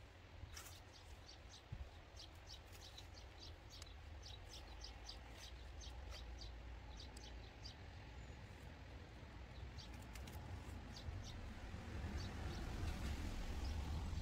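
Small birds chirping in quick, short high notes over a low steady rumble; in the last couple of seconds lettuce leaves rustle as they are cut and handled.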